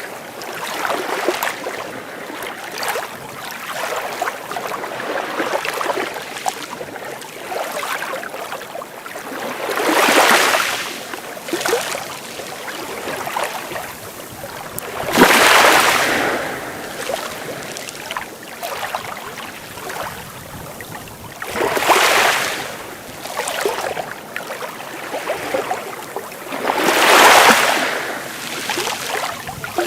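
Sea waves breaking and washing up a beach, with a louder surge of wash about every five to six seconds and smaller swashes in between.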